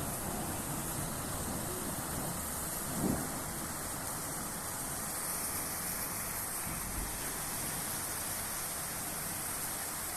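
Steady hiss of rain falling, with a brief low thump about three seconds in.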